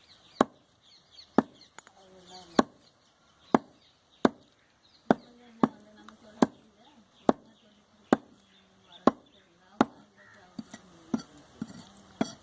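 Cleaver chopping on a wooden block, one hard stroke about every second, then lighter, quicker strokes near the end.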